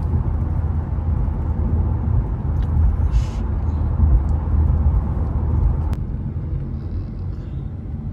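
Infiniti Q50's twin-turbo V6 engine and exhaust under way on the road, a deep low drone that swells about four seconds in and eases off after about six seconds.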